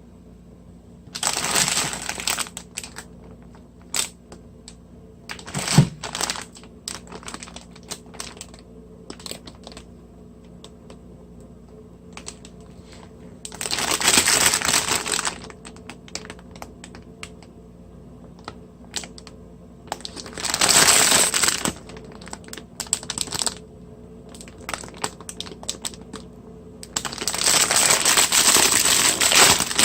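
Close-miked eating of ramen noodles: four long slurps of noodles, each lasting one to three seconds, with chewing and small clicks in between.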